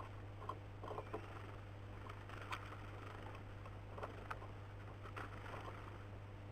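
Irregular light taps and scratches of birds hopping and pecking at a bird feeder, over a steady low hum.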